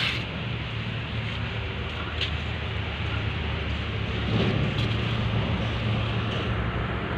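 Mitsubishi Canter light truck's diesel engine running steadily with a low hum, the truck loaded with sand; it grows slightly louder about four seconds in.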